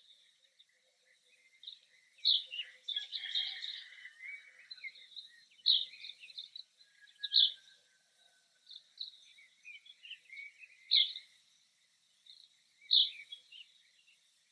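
Small songbirds chirping and calling, with one short, sharp high call standing out five times, a few seconds apart.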